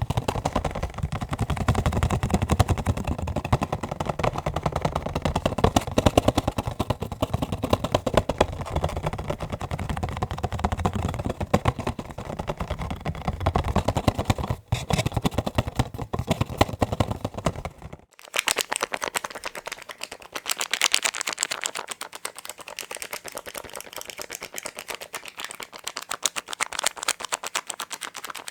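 Fast fingertip tapping on McDonald's meal packaging, a rapid, continuous run of small clicks. About two-thirds of the way through it switches abruptly from a deeper, fuller tapping to a thinner, brighter tapping on a different item.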